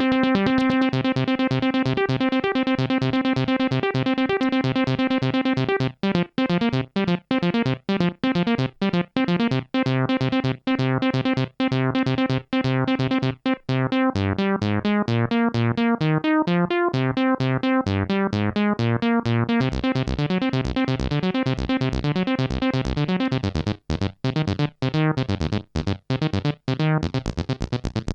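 Roland SH-201 analog-modelling synthesizer playing fast arpeggio patterns, rapid repeated notes with short gaps between them. The pattern changes several times, and a held chord over a steady pulse opens it.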